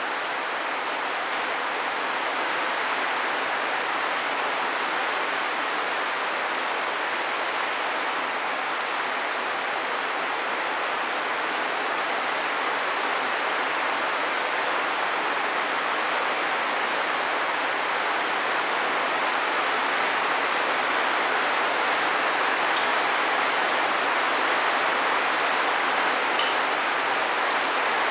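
Steady rain falling, an even hiss that grows a little louder in the second half.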